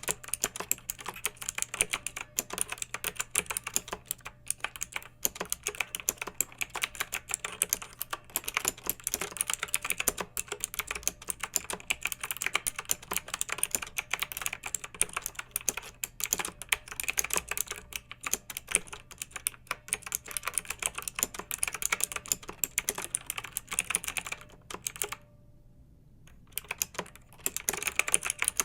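Clicky mechanical keyboard being typed on, a fast, steady stream of keystrokes. The typing stops for about two seconds near the end, then starts again.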